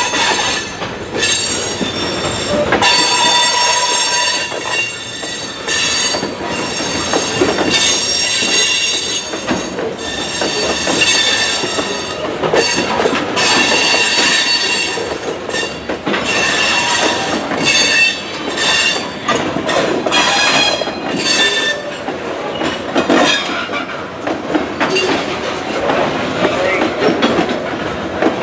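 Freight cars rolling slowly on the rails, their wheels squealing in high-pitched spells that come and go, with clatter and rumble underneath.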